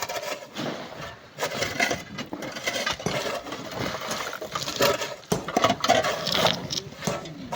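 Rock and stone clattering and knocking in quick, irregular strokes as miners dig into a sand-and-rock cliff face, with loose stones tumbling and striking one another.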